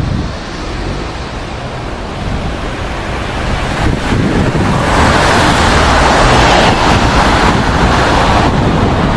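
Wind buffeting the microphone, with the noise of a passing jet airliner swelling from about four seconds in and staying loud to the end.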